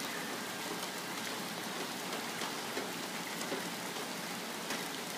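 Steady rain falling, an even hiss with faint ticks of single drops striking close by.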